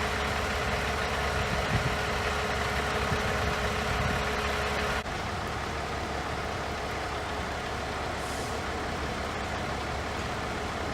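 Heavy truck engine idling steadily, with a steady hum that stops abruptly about five seconds in while the engine noise carries on.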